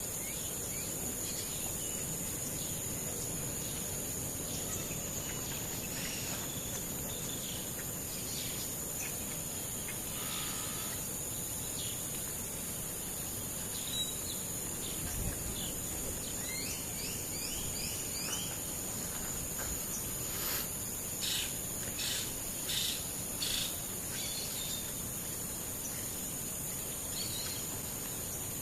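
Steady high-pitched insect drone, with short rising bird chirps scattered through it and a run of five or six sharp clicking calls about three quarters of the way in.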